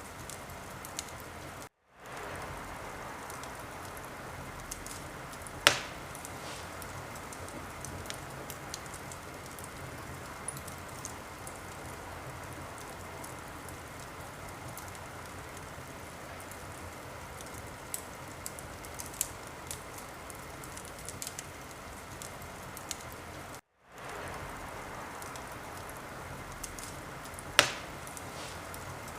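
Wood fire in a fireplace crackling with a steady hiss and scattered small crackles, and two sharp, loud pops, one about six seconds in and one near the end. The sound cuts out briefly twice.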